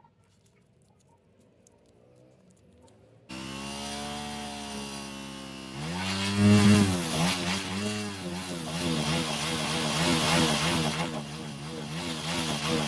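Motorcycle engine running: it comes in suddenly about three seconds in, is revved up and down twice, then runs on unevenly at a fast idle.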